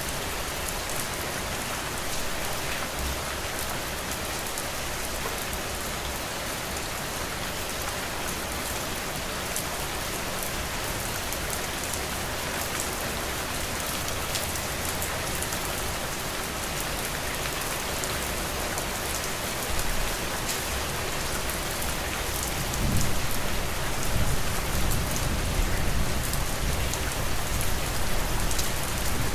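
Steady rain falling, with fine pattering drops. A low rumble swells in under it during the last several seconds.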